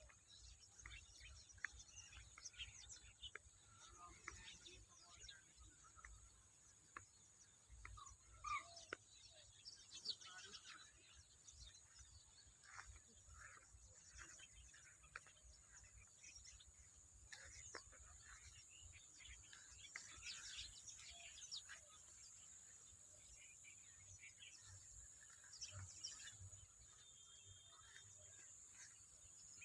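Faint, scattered calls and chirps of many wetland birds, over a steady high hiss.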